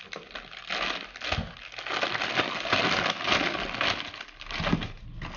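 Packaging crinkling and rustling as a ceiling fan is unwrapped from its box, a dense run of crackles from about a second in until near the end.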